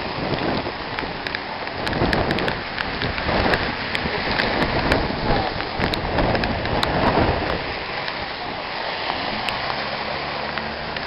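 Heavy hurricane rain pouring down, the downpour swelling louder in gusts through the middle and then easing back to a steady rush.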